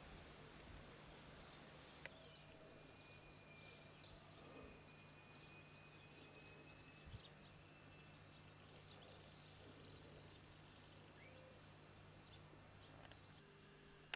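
Faint outdoor ambience with small birds chirping over and over, short high chirps coming irregularly through most of the stretch.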